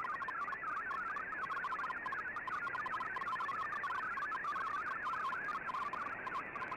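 MFSK digital data signal from a shortwave receiver's audio output: a fast, steady warble of single tones stepping up and down within a narrow band, over faint band hiss.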